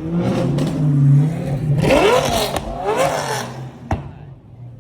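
A car engine idling and then revved twice, the pitch rising and falling with each rev, followed by a single sharp crack about four seconds in.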